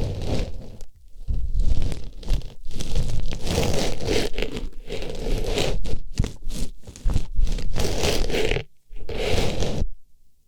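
Artificial rose pushed into and rubbed around an ear for ASMR ear-cleaning sounds: close rustling and scraping in irregular strokes, with brief pauses and a longer gap near the end.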